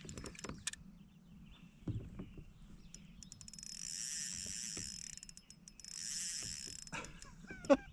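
Spinning fishing reel buzzing in two stretches of a second or two while a big hybrid striped bass is played on light line, with scattered clicks and a few sharp knocks near the end.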